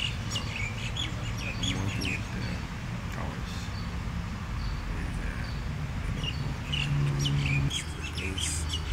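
Small birds chirping, many short high chirps over a low steady background rumble.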